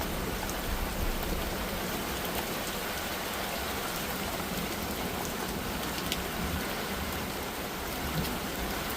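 Heavy monsoon rain pouring down steadily, a dense hiss of drops hitting the ground and surfaces.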